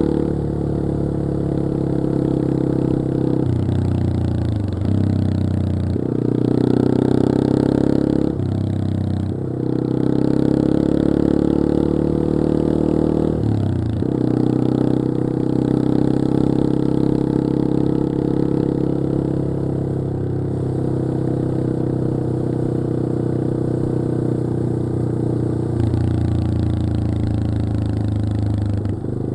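Yamaha XT225 Serow's single-cylinder four-stroke engine running under way, its pitch climbing with throttle and dropping back several times as the rider shifts or rolls off.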